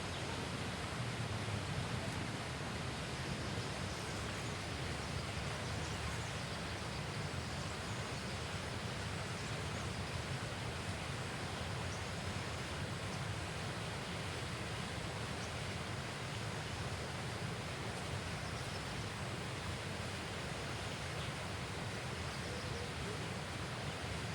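Steady outdoor background noise: an even low rush with a faint hiss and no distinct events.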